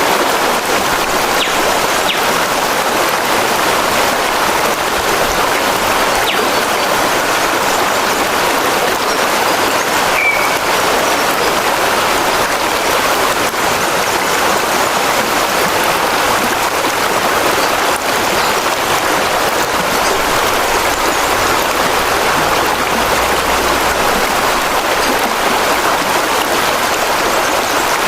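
Running water: a steady, even rush of water noise with no break.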